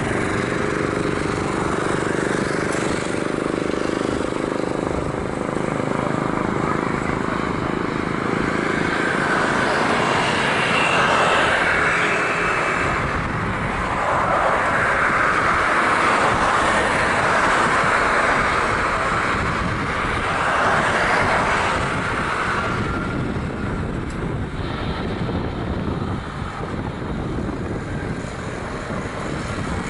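Jet airliner engine noise: a steady rush that swells about a third of the way in and eases off near the end.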